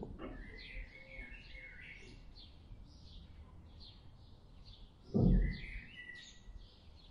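Small birds chirping and twittering: a continuous run of short, high, repeated chirps, about two to three a second. A brief low thud about five seconds in is the loudest sound.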